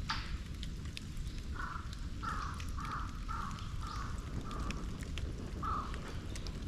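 A crow cawing six times in quick succession, about half a second apart, then once more near the end. Faint crackling from a wood and bamboo bonfire runs underneath.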